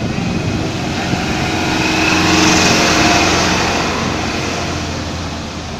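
Truck engine running, growing louder to a peak about halfway through and then easing off, with a rushing hiss at its loudest.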